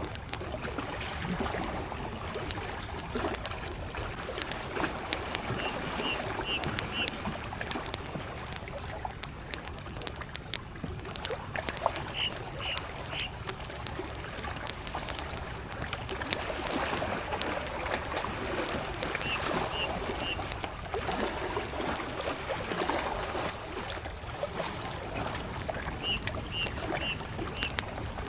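Campfire crackling with frequent sharp pops over small lake waves lapping in slow swells. A bird calls four times, each a quick run of three or four short high notes, about every seven seconds.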